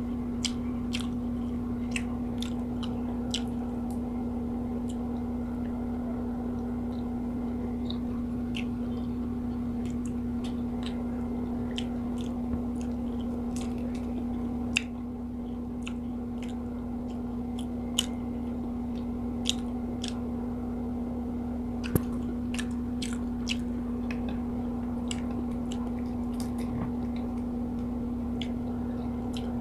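Close-up mouth sounds of eating fried tilapia and rice by hand: chewing, with many sharp clicks and smacks scattered throughout. A steady low hum runs underneath.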